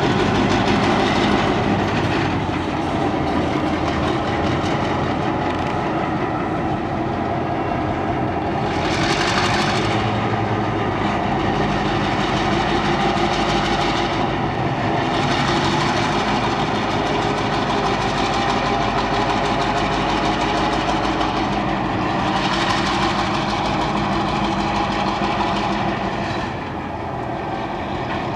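Four-axle diesel locomotive hauling a string of covered hopper cars at low speed: the diesel engine runs steadily under the clatter of wheels and cars on the track, which swells louder three times.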